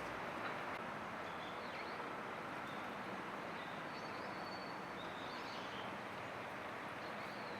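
Faint, high small-bird chirps and short calls, a few scattered through, one a brief held whistle, over a steady outdoor background hiss.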